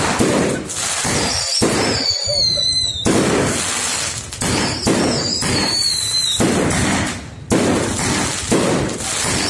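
Aerial fireworks bursting one after another in a rapid series of bangs and crackles, with two high whistles that fall in pitch.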